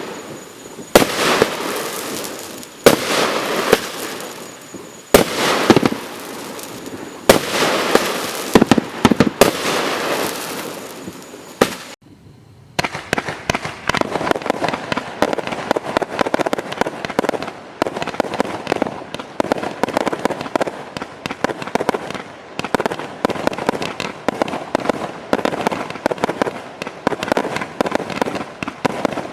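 Display firework cakes firing: loud bursts about every two seconds, each with a long fading tail, for about twelve seconds, then after a short pause a dense barrage of rapid pops and cracks that keeps going.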